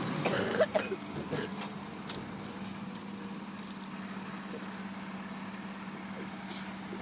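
Garbage truck's diesel engine running steadily, with a brief loud high squeal and clatter about half a second to a second and a half in.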